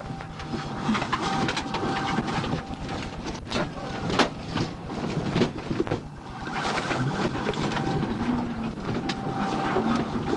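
Vehicle running at speed, heard from inside: steady engine and road noise with repeated short knocks and rattles, the sharpest about four seconds in.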